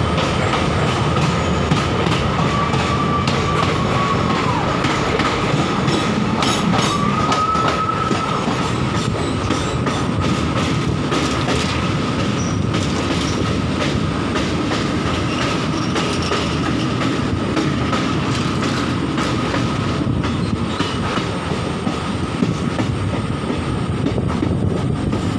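Passenger train running along the rails, heard from an open doorway: a steady rumble and clatter of the wheels over the track. A thin, high wheel squeal is held throughout and swells twice in the first several seconds.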